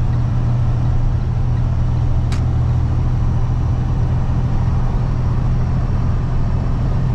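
Freightliner box truck being driven, heard from inside the cab: a steady low drone of engine and road noise.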